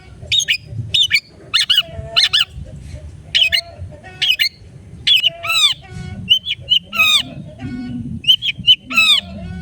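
Long-tailed shrike giving loud, harsh, squawking calls in quick succession, about two a second. Partway through come a few longer calls that sweep downward in pitch, along with short buzzy rattles.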